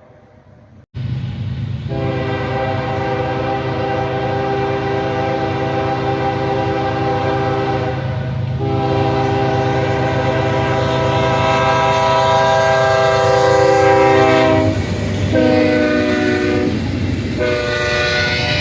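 Diesel freight locomotive's multi-chime air horn sounding the grade-crossing signal: two long blasts, a short one, then a long one, over the rumble of the locomotive and train. The sound comes in abruptly about a second in.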